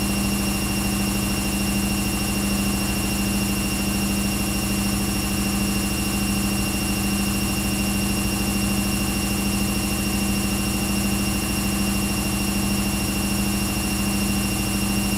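Washing machine running with a steady, unchanging hum, a thin high whine over it and a background of even noise.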